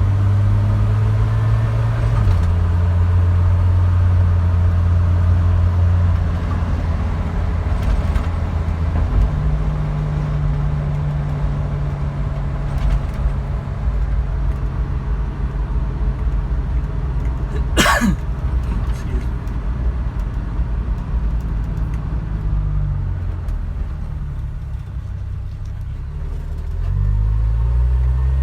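The 1978 Dodge D100's slant-six engine running steadily while the truck is driven, its pitch changing in steps as it shifts or changes throttle. There is a single sharp click about two-thirds of the way through. Near the end the engine note rises as the truck accelerates.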